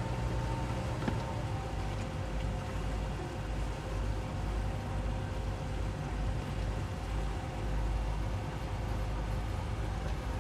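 The towboat's twin Suzuki 200 hp outboard motors running steadily while pulling a heavy yacht under tow, with a low rumble and a steady hum. A single short click is heard about a second in.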